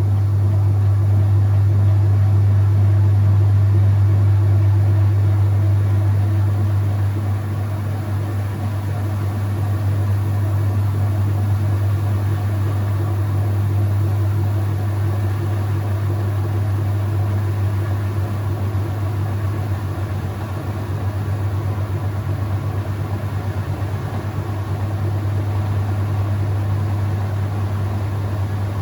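Whirlpool top-load washing machine running mid-cycle: a loud, steady low motor hum with fainter whirring above it.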